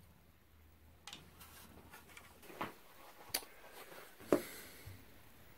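A few faint clicks and light knocks, about a second apart, from hard dried corn cobs and loose kernels being handled on a workbench.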